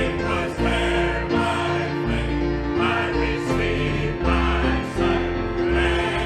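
Gospel music: singing over instrumental accompaniment with a steady bass line.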